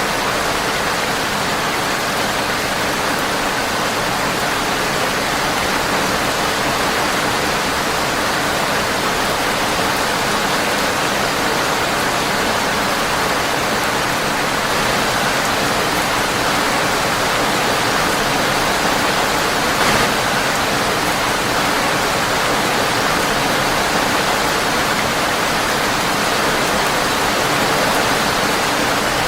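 Steady, dense rain hiss of rain on a windowpane, with one short sharp click about two-thirds of the way through.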